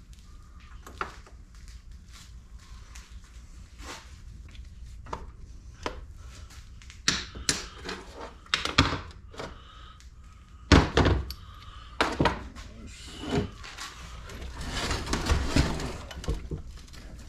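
Hand tools knocking and clinking against the metal of a rammer on a workbench as bolts are worked loose: scattered sharp knocks, sparse at first and louder and more frequent in the second half, with a stretch of rough scraping near the end.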